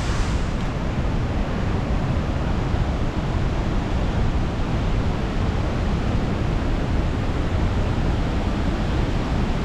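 Chilnualna Creek cascade: white water rushing in a steady, unbroken roar, with no breaks or distinct splashes.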